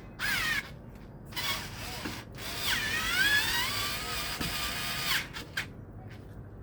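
Power drill driving and tightening screws on a ceiling fan, in two short runs and then a longer run of about three seconds whose pitch dips and then climbs.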